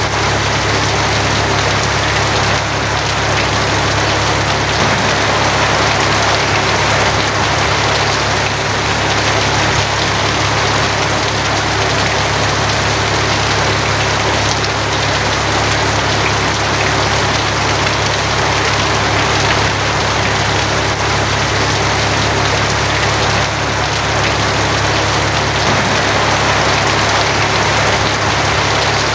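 Steady rain drumming on a tin roof, unbroken throughout, with a steady low hum underneath.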